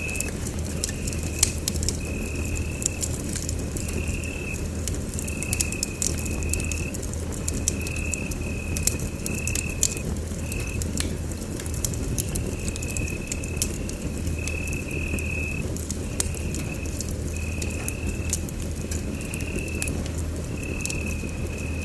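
Wood fire in a fireplace crackling, with frequent sharp pops over a low steady rumble of the flames. A faint high tone pulses on and off about once a second.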